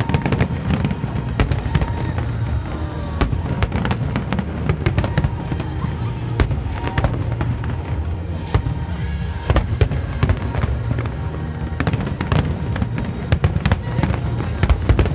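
Continuous barrage of aerial firework shells bursting: many sharp bangs and crackles, one over another, over a steady low rumble.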